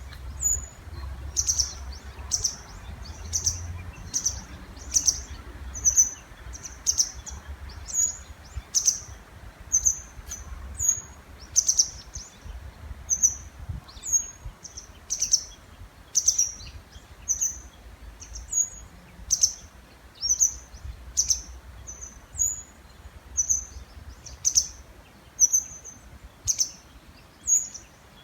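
Small songbirds calling back and forth in the breeding season: short, sharp, high-pitched calls repeated about once or twice a second without a break, over a faint low rumble.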